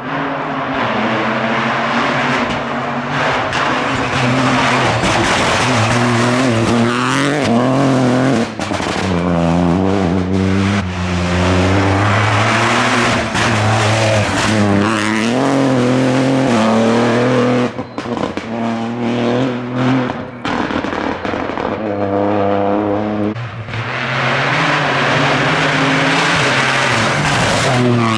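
Rally car engine accelerating hard through the gears, its pitch climbing and dropping back at each shift and again as it slows for corners. Around two-thirds of the way through the throttle lifts several times with sharp cracks, before it pulls hard again.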